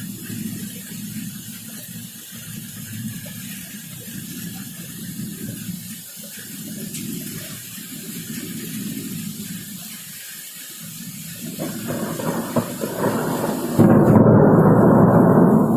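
Thunder rumbling through a steady hiss of rain, swelling about three-quarters of the way in and becoming much louder near the end.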